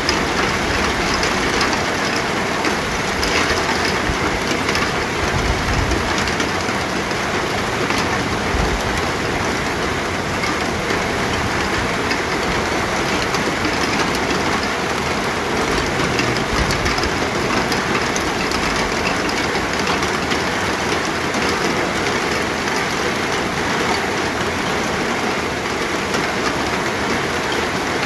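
Steady, dense rainfall: an even wash of rain noise, with a few brief low rumbles.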